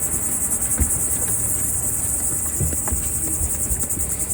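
A loud, steady, high-pitched insect chorus, chirring in fast pulses, with a few soft low thumps.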